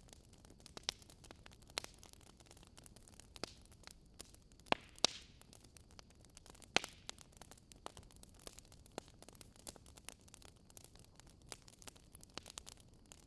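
Wood bonfire crackling: irregular sharp pops and snaps over a faint steady hiss, the loudest pops about five and seven seconds in.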